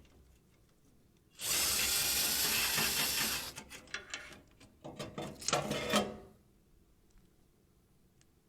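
A cordless drill-driver backs screws out of a furnace's sheet-metal panel: it runs steadily for about two seconds, then short bursts, clicks and metal rattles follow for a few seconds before it stops.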